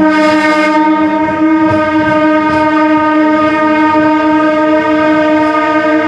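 Train air horn sounding one long, steady blast that starts abruptly and is held throughout.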